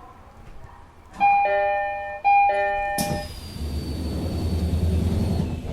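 Japanese commuter train's door-closing chime, a two-note chime sounding twice, followed about three seconds in by the air hiss of the pneumatic doors closing.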